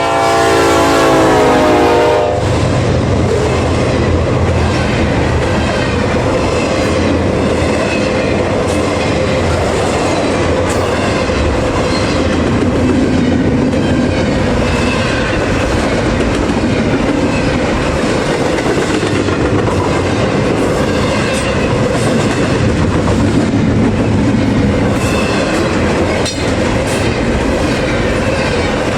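Freight locomotive horn sounding for about two seconds, then the steady rumble and clickety-clack of a double-stack intermodal freight train rolling past.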